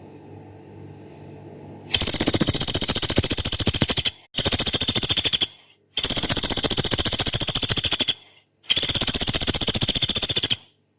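Small pelatuk beras woodpecker giving four long, harsh, rapid chattering trills of about one to two seconds each, separated by short pauses. A faint low hum comes before the first trill, about two seconds in.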